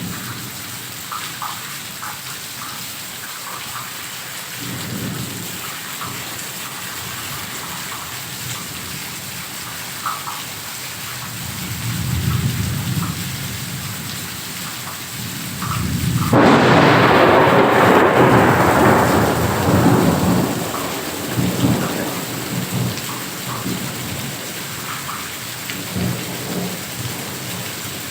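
Heavy rain falling steadily, with thunder: low rumbles about five and twelve seconds in, then a loud clap about sixteen seconds in that rolls on for several seconds before fading back under the rain.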